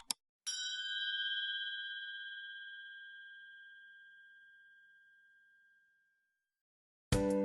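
A single bright bell-like ding, struck about half a second in and ringing out slowly for some five seconds. Music with a beat starts again near the end.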